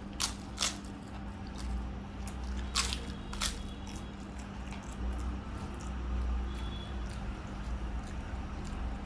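Close-miked crunching bites of crisp fried food: four sharp crunches in the first three and a half seconds, then softer chewing.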